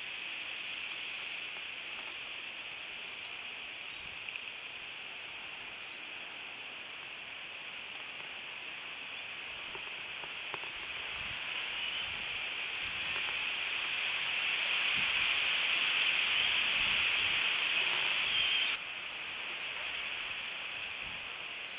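Strong wind making a steady hissing rush that swells over several seconds, then drops off suddenly about nineteen seconds in.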